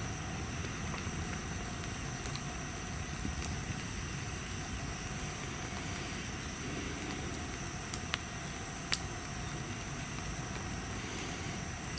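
Wood bonfire burning, with a few sharp crackles about eight and nine seconds in, over a steady low rumble and a faint steady high-pitched tone.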